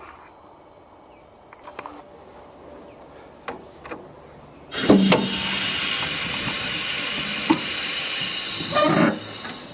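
A few light knocks and clicks, then a loud steady hiss that starts suddenly about five seconds in and cuts off about four seconds later.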